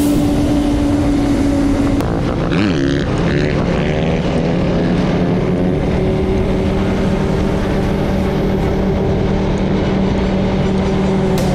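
Off-road vehicle engine running under way at steady revs. The engine note drops in pitch about two seconds in, swoops briefly up and down, then holds steady at the new speed.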